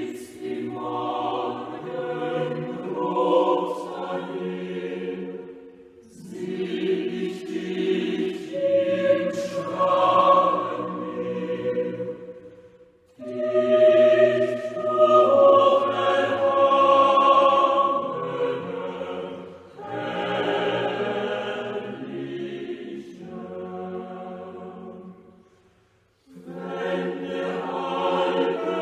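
A choir singing unaccompanied in long held phrases, with brief pauses between the phrases.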